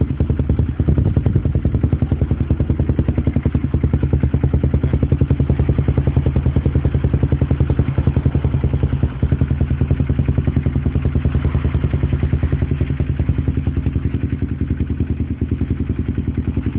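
Honda CBR150i single-cylinder engine running steadily through an aftermarket exhaust pipe, with a quick, even exhaust beat and no revving.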